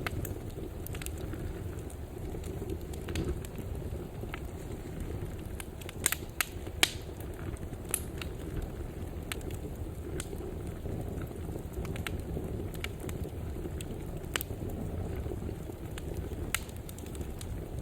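Wood fire burning in a fireplace: a steady low rumble of flames with scattered sharp crackles and pops, a few louder pops about six to seven seconds in.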